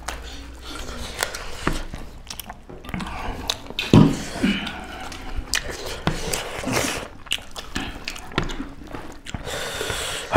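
Close-up eating sounds: chewing and lip smacking as two people eat rice and curry by hand, with many small clicks and taps throughout and a short vocal sound about four seconds in.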